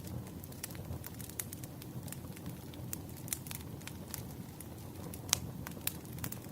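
Burning firewood crackling: a steady low rumble of flames with irregular sharp pops and snaps, one louder pop a little past five seconds in.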